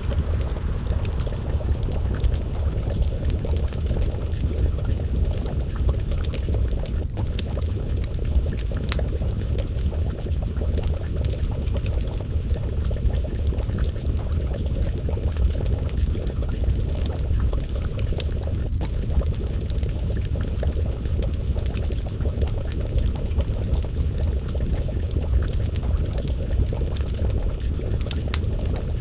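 Wood fire crackling with scattered sharp pops over a steady low rumble, mixed with a pot of stew bubbling as it simmers.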